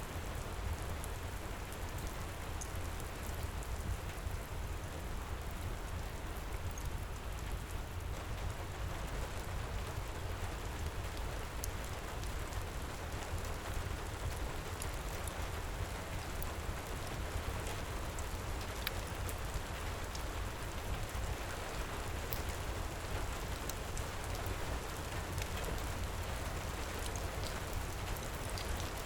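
Heavy rain pouring steadily, with a deep low rumble underneath and faint scattered crackles of a wood fire.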